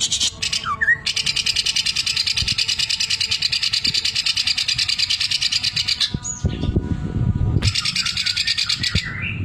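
Cucak ijo (leafbird) singing its 'mesin jahit' fill: a rapid, even, high-pitched rattle that mimics a sewing machine, one long run of about five seconds starting about a second in and a shorter run near the end, with a brief rising whistle at the start.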